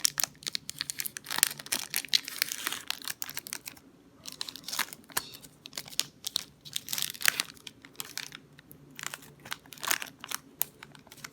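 Foil trading-card booster pack wrapper being handled and torn open, a dense run of irregular sharp crinkles and crackles with a short lull about four seconds in.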